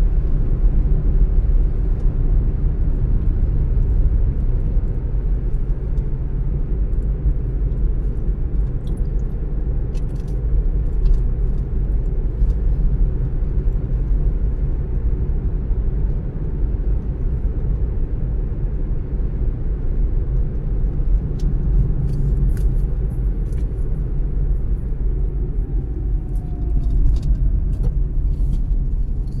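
Car driving along the road: a steady low rumble of engine and tyres, with faint scattered clicks in the second half.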